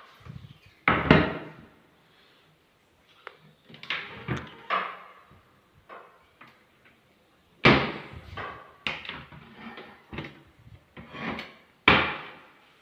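Irregular wooden knocks and scrapes, a dozen or so, from wood being handled or worked by hand, with three louder knocks: about a second in, past halfway and near the end.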